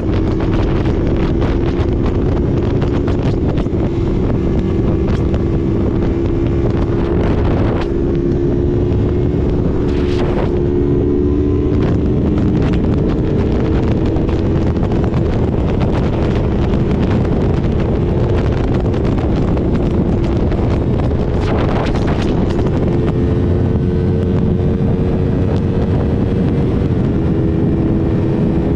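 Motorcycle ridden at speed, its engine running steadily under heavy wind noise on the microphone, the engine pitch shifting a few times. Plausibly the Yamaha R3's parallel twin, heard from onboard.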